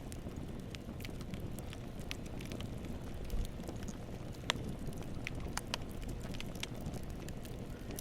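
Campfire burning: a steady low rumble of flames with irregular sharp crackles and pops from the burning wood, one louder pop about halfway through.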